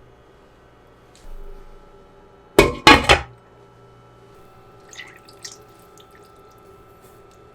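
Kitchenware being handled: a quick clatter of two or three loud hard knocks, like dishes or a pan set down, about two and a half seconds in, followed by a few faint clinks.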